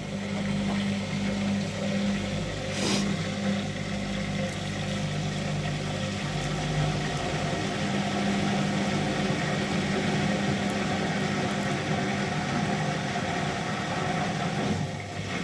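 Hotpoint washing machine in its final spin: a steady motor hum and whir from the spinning drum, dropping off right at the end.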